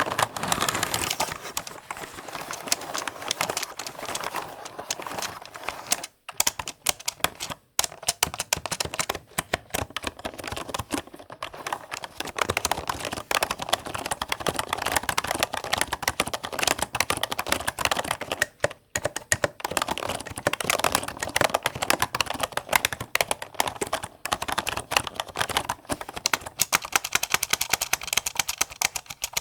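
Fast, continuous typing on a computer keyboard, a dense run of key clicks with a few brief pauses.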